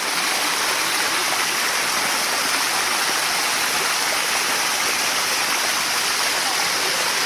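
Water of the Bua Tong Sticky Waterfall cascading over rock, a steady rushing sound.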